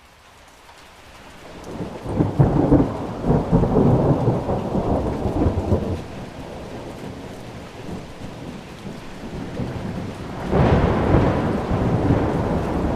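Thunderstorm: steady rain with two long rolls of thunder, the first about two seconds in and the second near the end. The rain swells up out of silence at the start.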